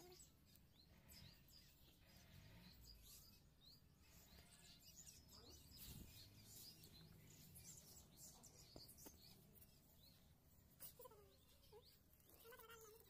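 Near silence, with faint birds chirping in short scattered calls throughout.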